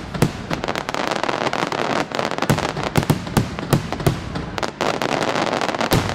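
Fireworks display: a dense, irregular run of loud bangs from bursting shells, several a second, with steady noise filling the gaps between them.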